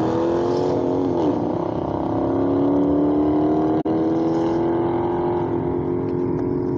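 A car engine revved high and held there. Its pitch dips briefly about a second in, then recovers and climbs slowly.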